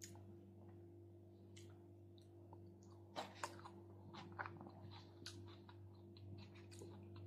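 Faint close-up chewing of a leafy salad with chuka seaweed: soft, scattered wet mouth clicks and small crunches, more of them from about three seconds in, over a steady low hum.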